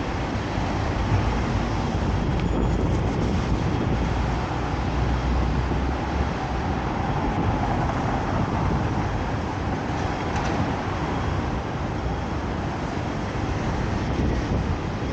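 Strong typhoon wind blowing on the microphone: a steady, deep rumbling noise with no letup.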